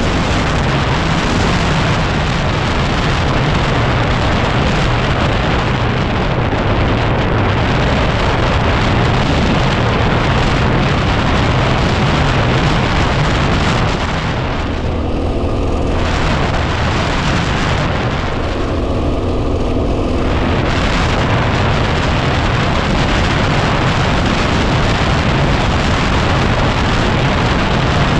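Heavy wind buffeting on the microphone over a 2010 Yamaha WR250R's single-cylinder engine running at a steady cruise. The wind eases briefly twice, around the middle, letting the engine note come through more clearly.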